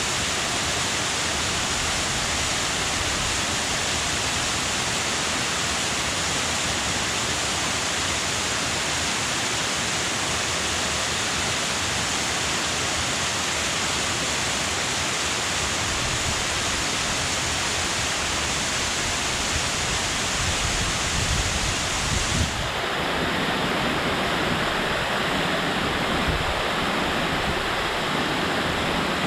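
Vesenniy waterfall: falling water rushing and splashing, as a steady loud roar. About two-thirds of the way through the sound changes abruptly, with some low, gusty rumble mixed in.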